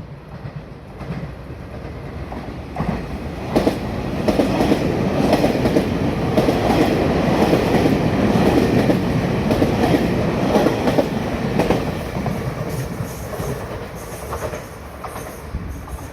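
A Puyuma TEMU2000 tilting electric multiple unit passing through the station at speed, its wheels clacking over the rail joints. The noise builds over the first few seconds, is loudest through the middle and fades toward the end.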